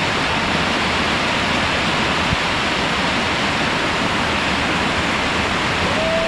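Waterfall rushing: a loud, steady roar of falling water with no change in level.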